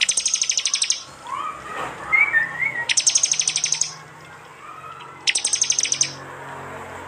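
Prenjak (prinia) calling: three rapid, high ticking trills of about a second each, with softer short whistled notes between the first two.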